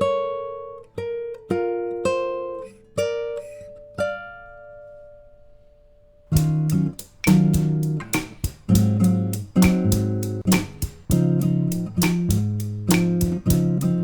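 Plucked guitar playing an instrumental introduction: a sparse line of single notes that ring out and fade, then a held note, then fuller picked chords with bass from about six seconds in.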